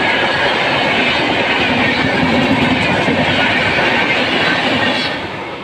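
Passenger train coaches running past close by, a loud steady rolling rush of steel wheels on the rails. About five seconds in, as the last coach, the luggage, brake and generator car, goes by, the noise starts to fade.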